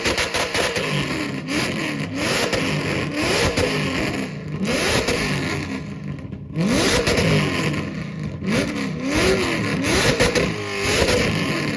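Car engine revved hard in repeated blips, the pitch rising and falling about once a second, with a short lull a little past halfway followed by a long, steep climb in revs.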